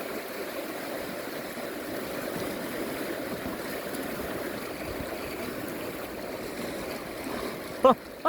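Fast, flooded river water rushing steadily through a rapid around a kayak. A short voice cry comes just before the end.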